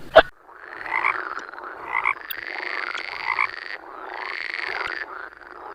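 Frog croaking, a run of rasping calls about a second apart, following the tail of a different rapid pulsed animal call that cuts off at the start.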